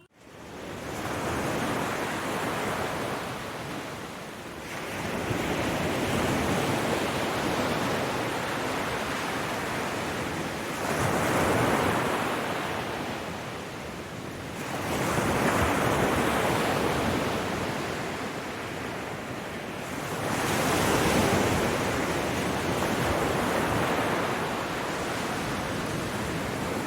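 Waterfall water rushing, a steady noise of falling water that grows louder and softer every few seconds.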